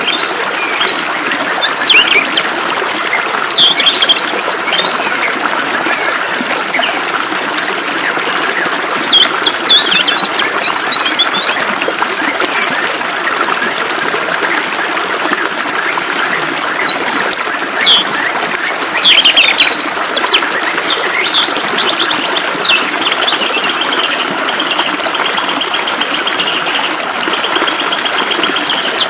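Small birds chirping and singing in short whistled phrases over a steady hiss of flowing water. Near the end a bird gives a fast, even trill.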